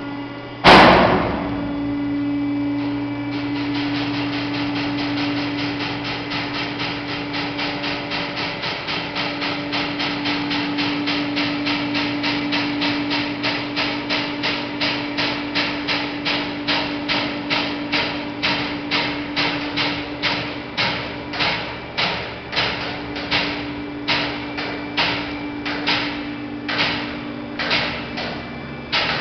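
Hydraulic car lift running, its pump motor humming steadily, with a loud bang about a second in and then a regular knocking that comes fast at first and slows to about one or two knocks a second. The knocking is the lift's abnormal noise as the platform moves.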